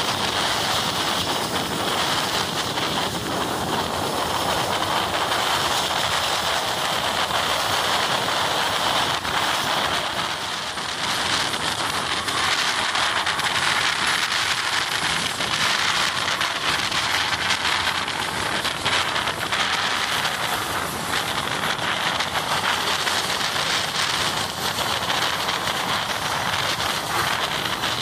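Steady rushing noise of a moving train, its wheels and body running with wind noise.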